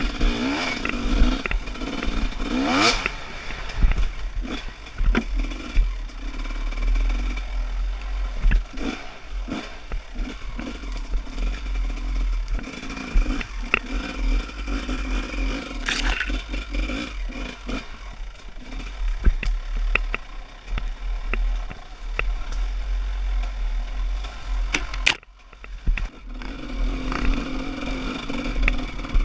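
Dirt bike engine running and revving on a rough trail, with frequent knocks and clatter from the bike over the ground. The sound drops out briefly about 25 seconds in.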